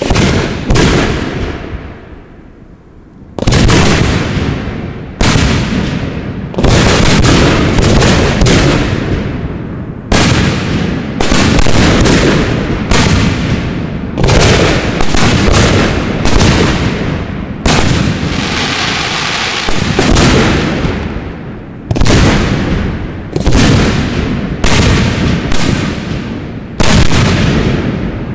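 Aerial firework shells bursting in quick succession in a finale of gold brocade bouquet shells: more than twenty loud bangs, each dying away over a second or so. There is a short lull about a second in, then the bangs come every half second to a second.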